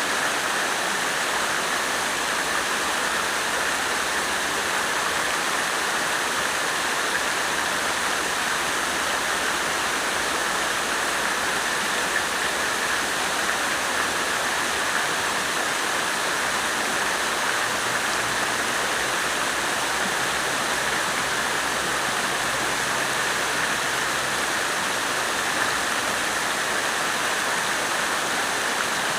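Water fountain splashing steadily, a continuous even rush of falling water with no breaks or changes.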